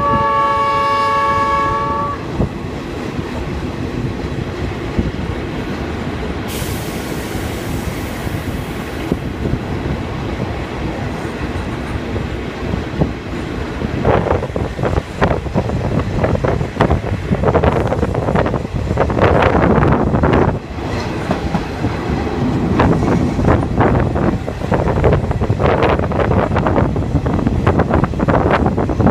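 Train horn sounding a held chord for about two seconds, then the passenger carriage rumbling along the track. About halfway through, the clatter of wheels over rail joints grows louder and busier, with a brief hiss about a quarter of the way in.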